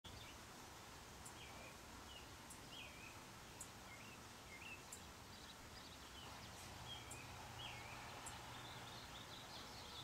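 Faint bird chirps: short, slurred notes repeated about every half second, growing busier near the end. A thin, high tick also sounds about once a second.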